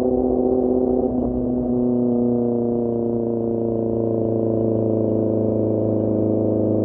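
QJMotor SRK600 inline-four with a Pure Austin Racing GP1R exhaust, running at steady revs under way. Its note changes about a second and a half in, then holds steady.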